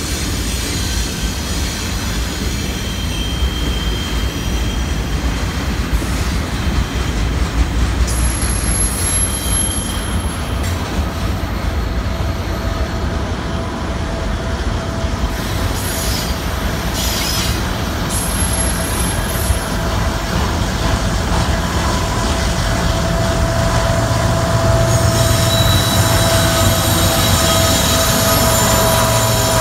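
Double-stack intermodal container cars rolling past on a curve, with a steady rumble of wheels on rail and a thin, high flange squeal. About 25 seconds in, the sound grows louder as a mid-train CSX diesel locomotive draws near and its engine joins in.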